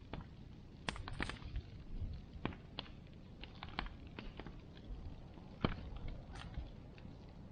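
Bonfire crackling, with irregular sharp pops over a low steady rumble. The loudest pop comes a little past halfway.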